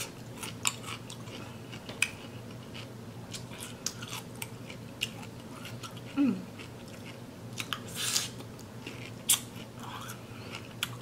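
Close-up crunching and chewing of raw cucumber slices: sharp crisp bites and wet, juicy mouth sounds at irregular intervals. There is a brief closed-mouth hum about six seconds in.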